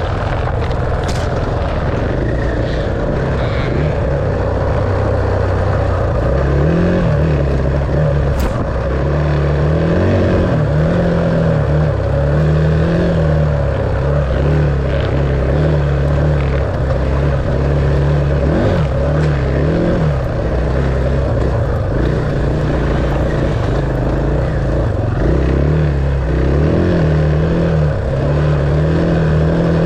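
Enduro dirt bike engine running while being ridden, its pitch rising and falling over and over as the throttle opens and closes.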